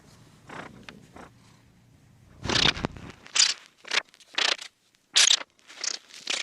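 A run of short, irregular scraping and rustling noises, starting about two and a half seconds in, after a faint low hum.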